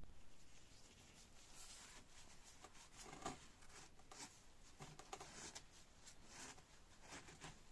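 Faint, scattered clicks and short scrapes of small parts being handled while dismantling a hydraulic jack, the loudest about three seconds in.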